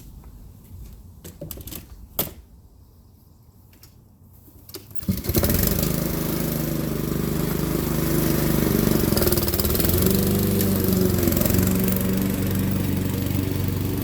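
A few clicks and knocks, then about five seconds in a Honda HRX217 walk-behind lawn mower's engine starts and runs steadily at full throttle.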